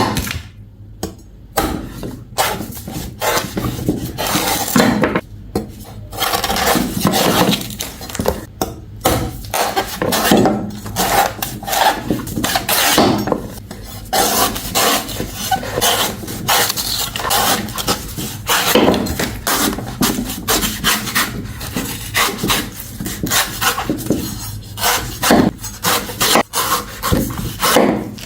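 Rough scraping and rubbing on a hard, woody surface, with irregular knocks and clicks, going on without a break.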